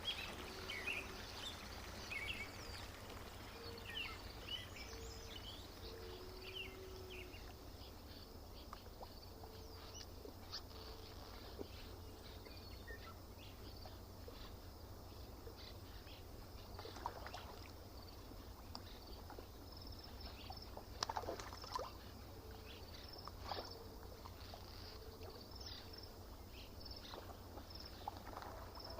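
Lakeside ambience: water lapping faintly, with scattered bird calls and short high chirps over a steady low hum.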